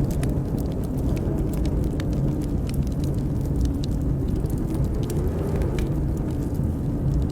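Wood fire crackling in a fireplace, with frequent sharp pops and snaps over a steady deep rumble of wind, which carries a faint wavering howl.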